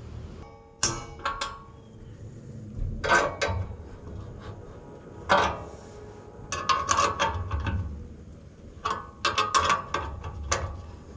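Hand tools on steel while fitting an exhaust pipe: short bursts of sharp metallic clicks and clanks, coming in clusters every second or two.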